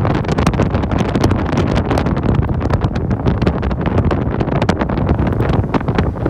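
BMW 328i's N52 3.0-litre inline-six exhaust running steadily and loud, breathing through aftermarket headers with the resonator and catalytic converters deleted and the stock rear exhaust kept.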